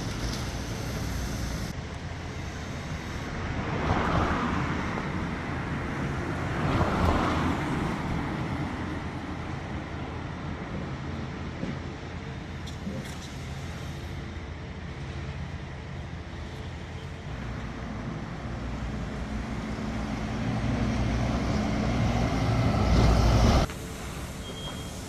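Road traffic rumbling steadily, with vehicles swelling past twice in the first several seconds and a heavier build-up near the end that cuts off abruptly.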